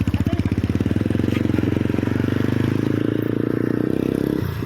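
A motor vehicle's engine running steadily with a fast, even pulsing beat, which dips briefly near the end.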